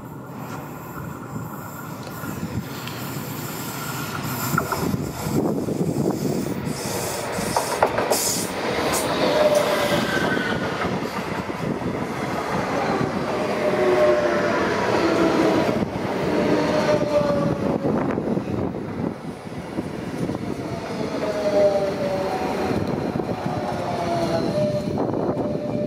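Renfe electric commuter train passing close by: a loud rush of wheels on rail that builds from about four seconds in, with a run of sharp clicks and then several high wheel squeals gliding down in pitch.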